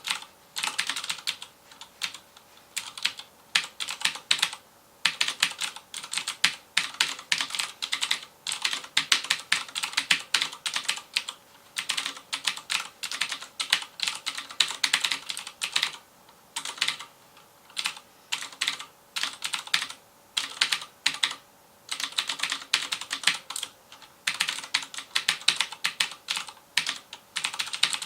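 Rapid typing on a FILCO Majestouch Convertible 2 mechanical keyboard with Cherry MX Blue switches: a dense stream of sharp, clicky keystrokes in runs, broken by brief pauses every few seconds.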